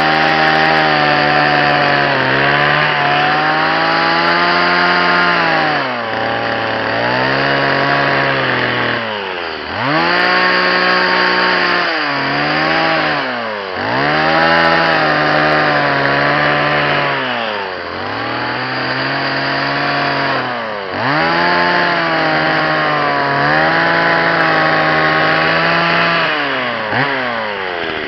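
Two-stroke chainsaw carving maple, running loud at high revs. The throttle is let off and opened again every few seconds, so the engine note keeps falling and rising back.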